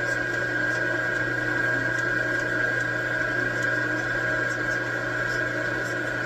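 Metal lathe running steadily, most likely turning a steel stud with a carbide insert: a steady high-pitched whine over a low hum, with faint scattered ticks.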